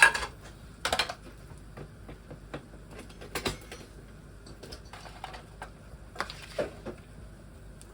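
Kitchen utensils clattering against pans and plates: a sharp knock at the start, then a few scattered knocks and scrapes.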